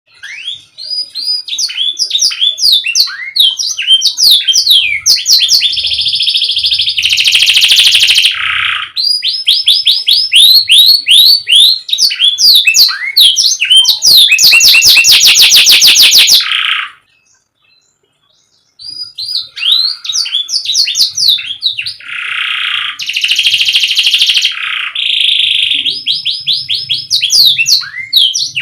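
Canary singing: long runs of fast repeated chirping notes and rolling trills, some passages as rapid buzzy rattles. There is a break of about two seconds a little past the middle.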